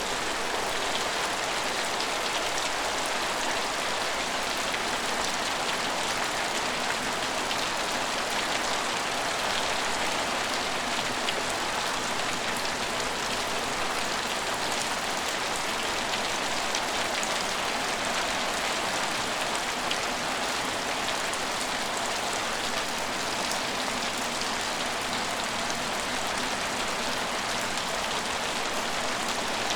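Steady rain falling: an even hiss of rainfall with many small drop ticks through it.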